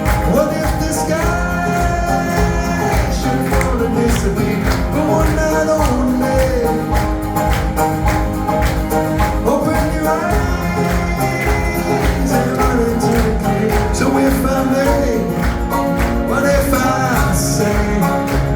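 Live band playing an instrumental break in a song, with a steady percussive beat and a lead melody that slides between held notes.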